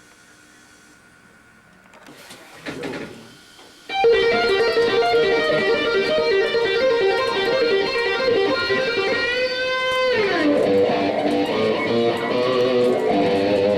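Quiet for the first few seconds apart from a short swell of noise, then electric guitar music starts about four seconds in, a run of plucked notes whose pitch slides down sharply near ten seconds.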